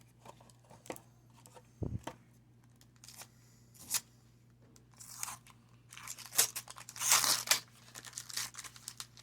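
Wax paper wrapper of a 1990 Donruss baseball card pack being torn open and crinkled, the loudest tearing about seven seconds in. Before it, a few light handling clicks and a dull knock about two seconds in.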